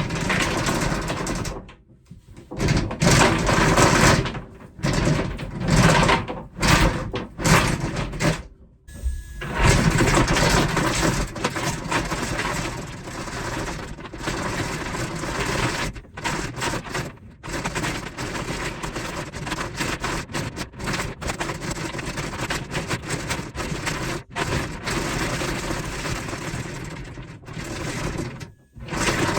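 Power drill boring a hole, run in short stop-start bursts for the first several seconds, then running almost continuously under load with brief dips.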